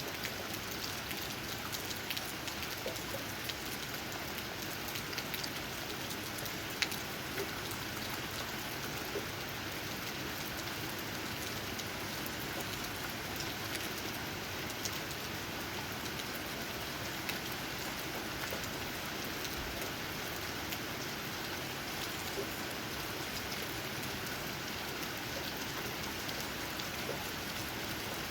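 Steady rain falling, its drops tapping on tree leaves as a constant hiss full of small separate ticks, with one sharper drop hit about seven seconds in.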